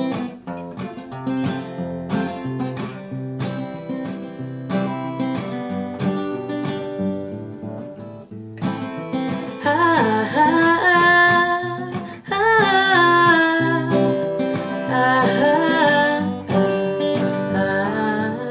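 Acoustic guitar playing a song's introduction, with repeated plucked chords. About halfway through, a voice joins in singing over the guitar.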